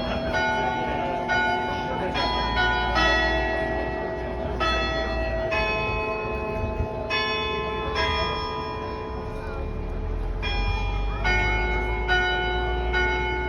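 Cathedral bells ringing out a Marian hymn tune, one struck note after another at about one or two a second, each ringing on into the next.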